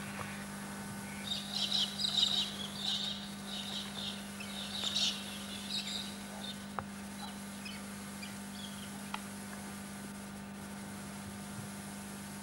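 Birds calling in a run of short high chirps for the first half or so, then fading, over a steady low electrical hum from the recording.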